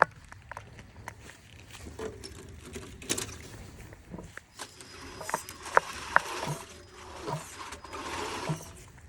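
Radio-controlled Tamiya Scania truck driving: its small electric drivetrain running, with irregular clicks, knocks and crunches as it rolls over the ground, busier in the second half.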